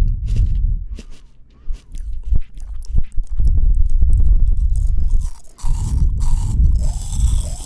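Close-miked chewing of fresh fruit: wet crunching and crackling with many small mouth clicks, over stretches of deep low thudding.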